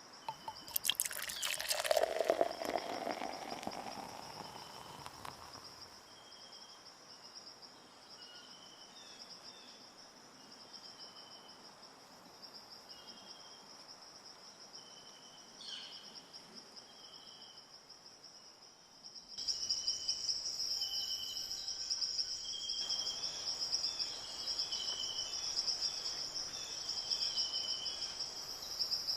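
Insects shrilling in a steady high buzz, with short chirps repeating over it. A louder noisy sound lasts a few seconds near the start, and the insect buzz grows louder about two-thirds of the way through.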